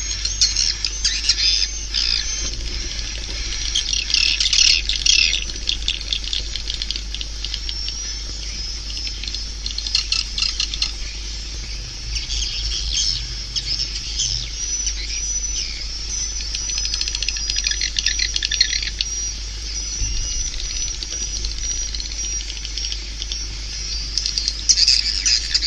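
Swiftlets twittering: a dense run of high chirps, short trills and rapid clicky bursts, with pauses and flare-ups, over a steady low hum. This is a swiftlet call recording of the kind played to lure birds into a swiftlet house.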